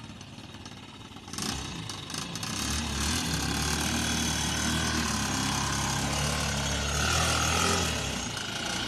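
An old hatchback car's engine running as the car drives on a dirt road. It grows louder about a second and a half in as the car comes round and close, and holds a steady note.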